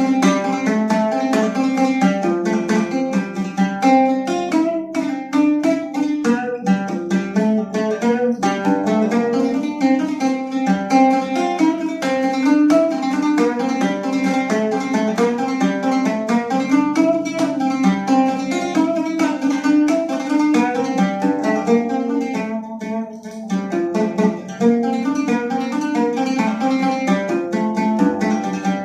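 Instrumental music on a plucked string instrument playing quick runs of picked notes, with a short drop in level about 23 seconds in.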